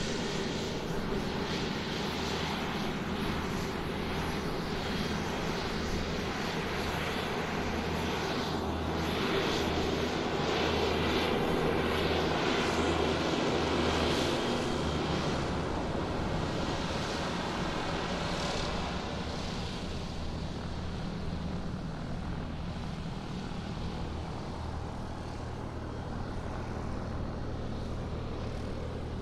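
Aircraft engines running steadily, growing louder about ten seconds in and easing off again after about twenty seconds.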